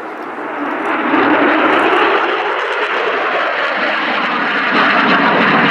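Jet noise from an RAF F-35B Lightning II's Pratt & Whitney F135 turbofan, swelling over about the first second and then staying loud and steady.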